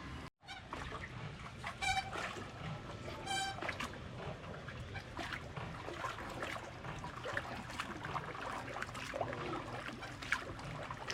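A bird calls twice, briefly, about two and three and a half seconds in, over a low background hum with scattered small clicks.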